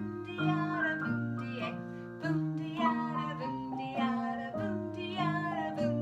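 Acoustic guitar strumming chords in a steady rhythm, with a voice singing along.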